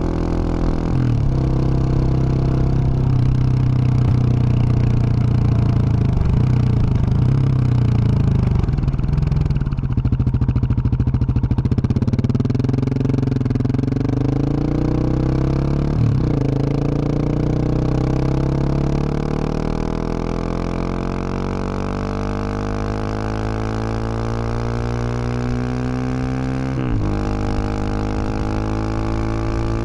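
2021 Husqvarna 701 Supermoto's single-cylinder engine through an aftermarket Wings exhaust, under way. The engine note drops as the bike slows, then climbs as it accelerates through the gears, with quick shift breaks about sixteen and twenty-seven seconds in.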